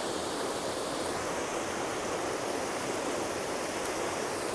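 Water pouring over a pond spillway into a pool below, a steady rushing noise.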